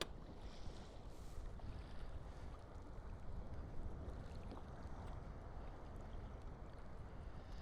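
Steady low rushing of wind and sea water around a kayak at sea, with a few faint clicks.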